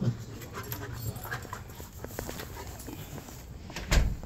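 A Rottweiler's quiet noises, with a louder low thump about four seconds in.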